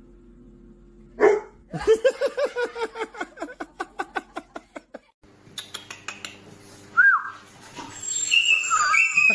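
Dog barking: one loud bark, then a fast run of yaps, about seven a second, that fade out. Near the end come a few short, high-pitched calls.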